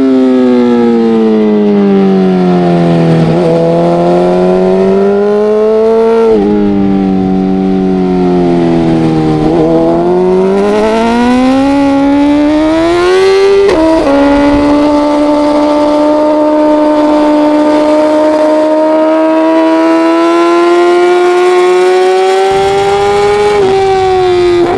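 Racing motorcycle engine heard onboard at race pace, its revs falling and climbing through corners with several abrupt jumps in pitch. It then holds a long, slowly rising pull at high revs for about ten seconds before dropping again near the end.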